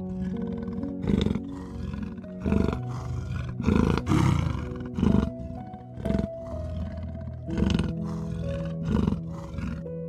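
Leopard calling with a series of about seven harsh, rasping grunts, roughly one every second and a quarter, over background music with sustained notes.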